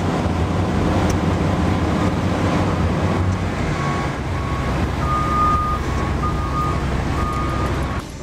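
Heavy diesel machinery engine running under load, with a backup alarm beeping on and off from about four seconds in.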